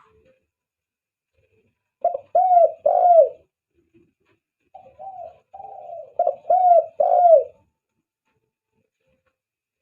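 Spotted dove cooing in two phrases: three loud coos about two seconds in, then, after a short pause, a run of softer notes ending in two loud coos. Each coo rises briefly and then falls.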